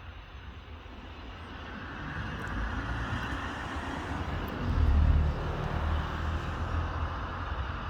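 Aircraft engines growing louder as a plane passes, a rushing noise with a deep rumble that peaks about five seconds in and then holds steady.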